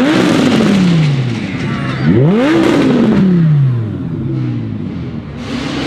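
A supercar engine revved twice at a standstill. Each rev climbs quickly and then falls back slowly to a steady idle.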